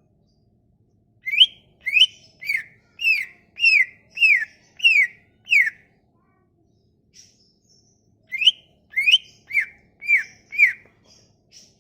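A songbird whistling a run of eight clear, slurred notes at about two a second, then after a short pause a second run of six, with faint high chirps between the runs.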